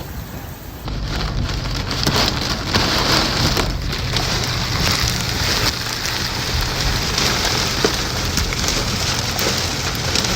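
Heavy rain pouring down in a dense, steady hiss that grows louder about a second in, over a steady low rumble.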